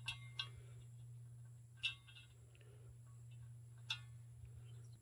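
A few sharp clicks with a brief ring, a cluster right at the start and single ones about two seconds apart, over a low steady hum: steel fence post anchor parts and an Allen key being handled during assembly.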